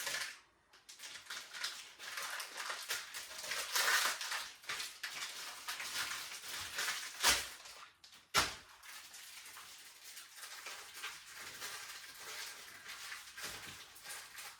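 Rustling and clattering of laundry being handled at a washing machine, with two sharp knocks about seven and eight seconds in.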